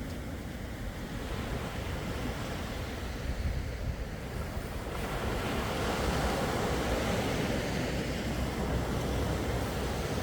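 Sea waves washing in, swelling and growing louder about halfway through, over a steady low rumble of wind on the microphone.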